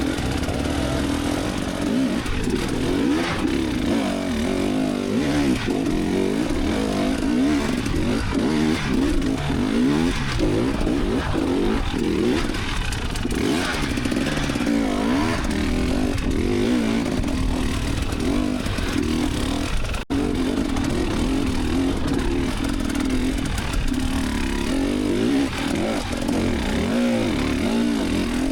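Enduro dirt bike engine being ridden, revving up and down constantly with the throttle. The sound drops out for an instant about twenty seconds in.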